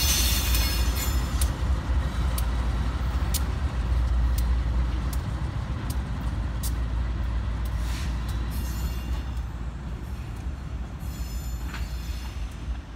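Freight train cars rolling by: a steady low rumble with scattered sharp clicks from the wheels, and a high wheel squeal at the start that returns faintly near the end. The sound slowly fades.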